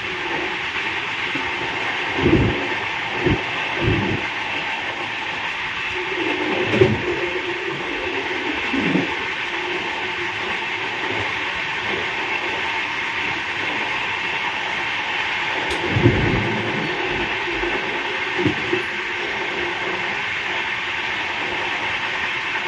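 Running noise of a moving express train, heard from inside the coach at an open window: a steady rush of wheels on rail. A few heavier low knocks come in at irregular moments, a cluster a couple of seconds in and another near the middle.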